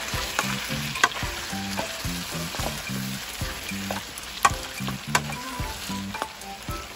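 Curry-seasoned oxtails with onions and bell peppers sizzling in a pan while a wooden spoon stirs them, with a few sharp knocks and scrapes of the spoon against the pan. The meat is being fried down until it releases its own juices for the gravy.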